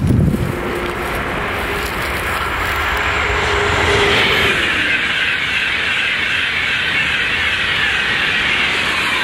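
High-speed train passing at speed: a steady rushing hiss of air and wheels on rail, with a faint tone that drops slightly in pitch about four to five seconds in.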